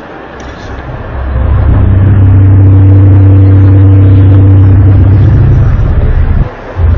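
A loud, low, steady trumpet-like drone with a few overtones. It swells in about a second in, breaks off briefly near the end, then comes back. It is one of the unexplained 'sky trumpet' noises posted online, described as sounding straight out of a science fiction film.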